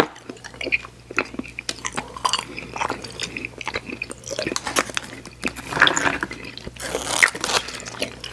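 Close-miked mouth sounds of chewing soft, chewy sour candy: irregular wet smacks and clicks, with a louder squishy burst about six seconds in.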